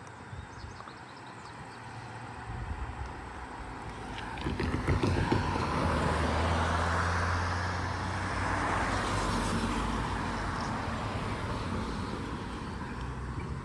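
A vehicle passing close by: the sound swells from about four seconds in, peaks around the middle with a steady low hum under the tyre and road noise, then slowly fades.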